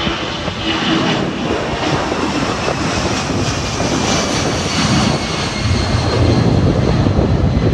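Airliner's jet engines, a loud steady rush with a faint high whine, the low rumble growing stronger near the end.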